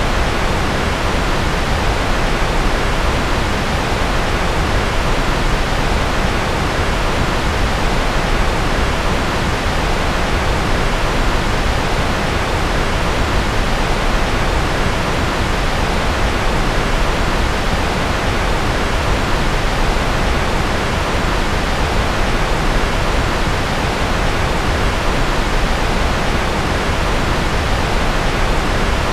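Steady electronically generated white noise: an even, unbroken hiss that never changes, thinning out only in the highest treble.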